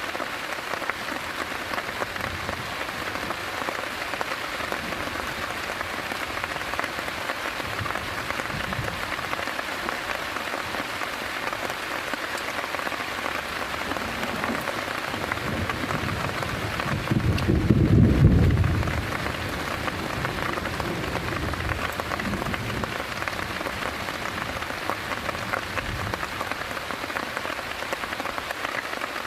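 Heavy rain falling steadily. A little past halfway a low rumble swells and fades over a couple of seconds, louder than the rain.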